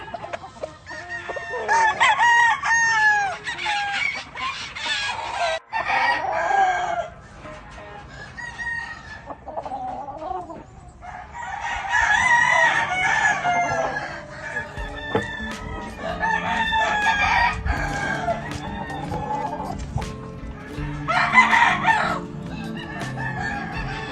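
Gamefowl roosters crowing in about five separate bouts, with clucking between the crows.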